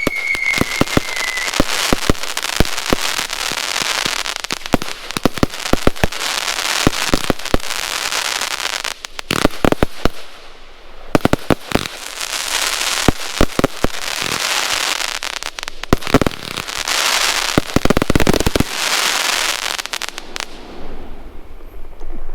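Pyromax Chopsuey 168-shot compound firework cake firing: a rapid barrage of shots and crackling breaks, with a brief lull about ten seconds in and thinning out near the end. A falling whistle fades out in the first second and a half.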